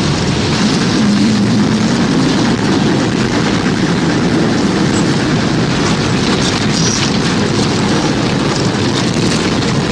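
Tornado sound effect: a loud, steady, deep rush of wind noise with no letup.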